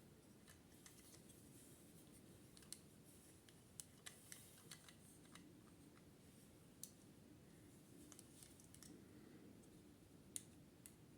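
Near silence, broken by faint, irregular small clicks and ticks, about a dozen of them spread across the stretch.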